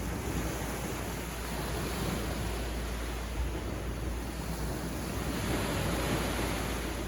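Sea waves breaking and washing up on a beach, a steady rush that swells louder about five seconds in.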